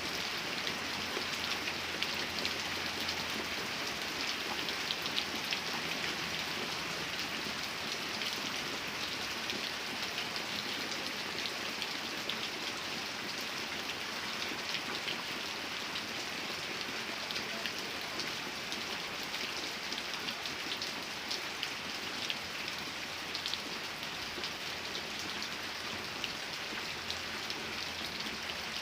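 Steady rain falling and pattering on a surface, a dense even hiss full of small drop ticks.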